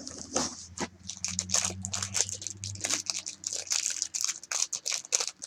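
Plastic packaging crinkling and crackling in quick, irregular bursts as a collector's enamel pin is worked out of its wrapper by hand.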